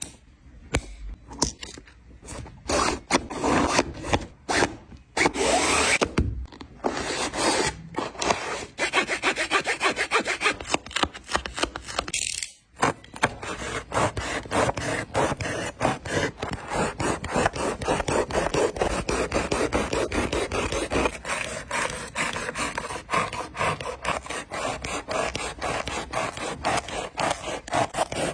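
A sneaker being taken apart by hand, its materials scraped and rubbed: a few separate scraping strokes at first, then a long run of fast, evenly repeated scraping strokes.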